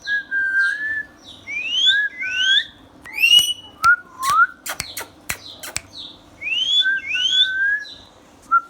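Indian ringneck parrot whistling a repeated phrase of pure rising whistled glides, with sharp clicks and a short chirp between the phrases.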